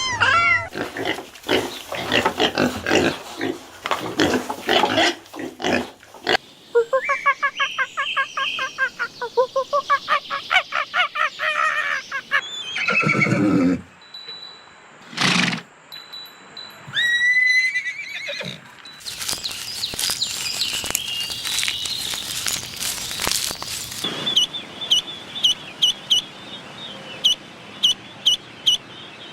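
A run of different animal calls one after another: a long trembling call, a few single calls and chirps, then fast repeated high chirps near the end.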